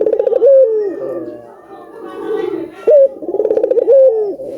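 Ringneck doves (burung puter) cooing: two loud rolling calls about three seconds apart, each a fast purring trill ending in a falling slur, with softer cooing between them.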